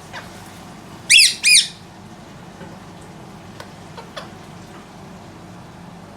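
Indian ringneck parakeet giving two loud squawks in quick succession about a second in, each rising and then falling in pitch. A few faint short calls follow later.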